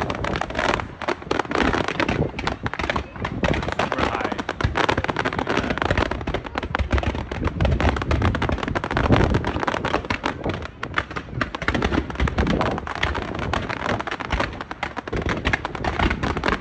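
Aerial fireworks going off in rapid succession: a dense, unbroken run of bangs and crackling shell bursts.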